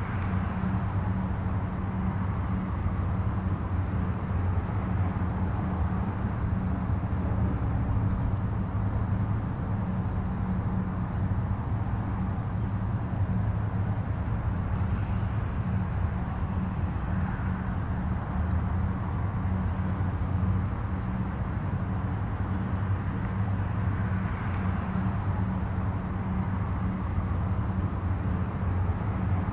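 Distant highway traffic: a steady rush of tyre and engine noise, with single vehicles now and then swelling up and fading away.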